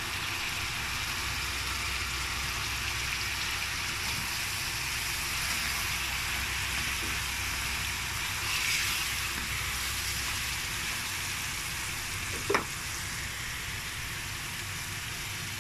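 Pork, squash, tomato and onion sizzling steadily in a hot stainless steel pan with fish sauce just added, stirred with a spatula partway through. A single sharp knock sounds near the end.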